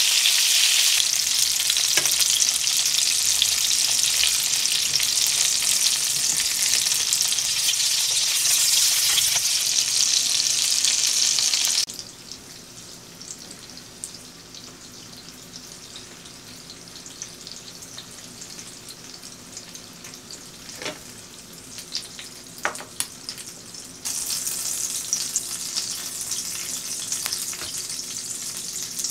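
Garlic cloves, onion rounds, corn and asparagus sizzling in oil in a frying pan. About twelve seconds in the sizzle cuts off to a much quieter stretch with a few sharp clicks, and the sizzling comes back a few seconds before the end.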